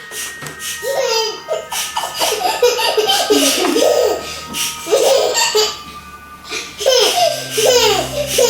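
People laughing in a run of short, rising-and-falling bursts.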